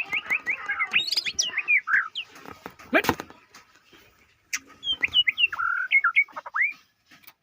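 White-rumped shama (murai batu) singing. It opens with a fast run of short falling whistles, about six a second, then moves into varied whistled phrases. There is a sharp click about three seconds in, and a second burst of song from about four and a half to nearly seven seconds.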